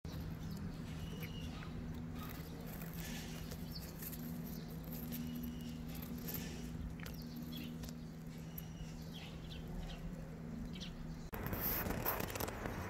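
Faint bird chirps over a steady low hum. About eleven seconds in, the sound cuts to a louder, even outdoor noise.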